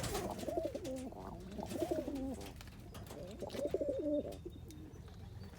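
Roller pigeon cock birds cooing: several warbling coos over the first four seconds or so, then quieter, with a few faint clicks.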